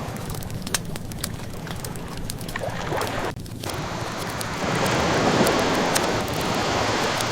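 Wood fire crackling with scattered sharp pops over a steady wash of ocean waves; the wash swells louder about halfway through.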